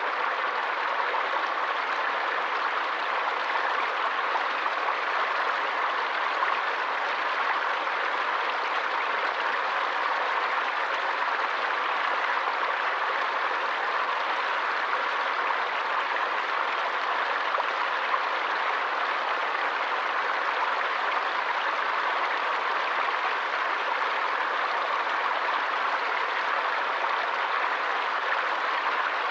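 Forest stream flowing: a steady, even rush of water with no separate splashes.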